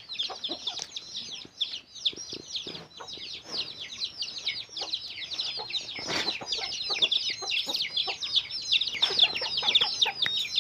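A flock of parrots chirping and chattering continuously, many short high-pitched calls overlapping without a break. There is a single brief knock about six seconds in.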